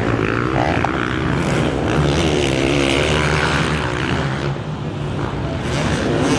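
Several motocross bikes racing on the track, their engines revving up and easing off over and over with overlapping, wavering pitches.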